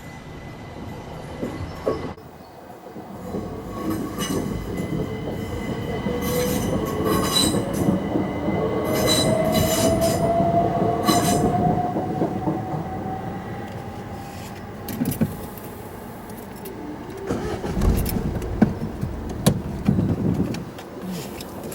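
Electric passenger train moving through a level crossing: a motor whine rises steadily in pitch as it gathers speed, over the rumble and clatter of wheels on the rails. A few heavy knocks come near the end.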